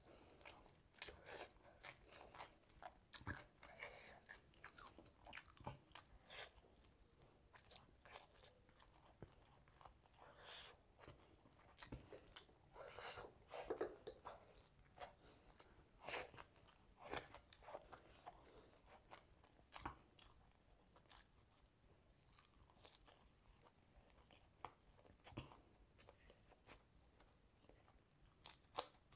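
Close-miked eating of grilled chicken: biting and chewing with a run of irregular sharp crunches, the loudest bites about halfway through.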